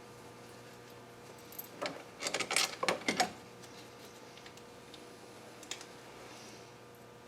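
Small metal bolts clinking and rattling as they are handled, a quick cluster of clicks about two seconds in, then a few faint clicks later.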